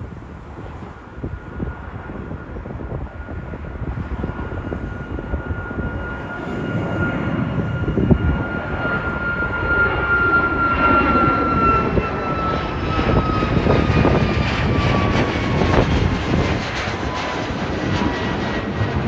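Jet airliner's engines passing close by, the rumble building and a high turbine whine sliding down in pitch from about twelve seconds in as the aircraft goes past.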